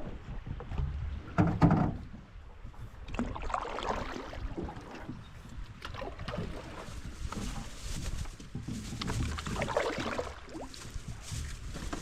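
Canoe paddles dipping and pulling through river water, a few uneven splashy strokes over a steady low rumble, the strongest about a second and a half in.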